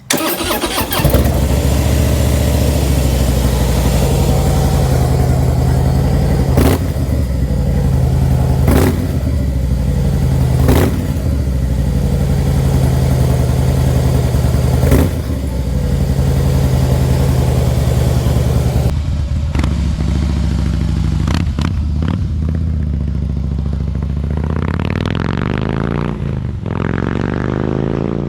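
A 2015 Harley-Davidson Fat Boy's V-twin running through drilled-out stock slip-on mufflers fitted with American Custom baffles. It comes on suddenly at the start, runs with a steady low beat and a few short throttle blips, then revs up with rising pitch near the end.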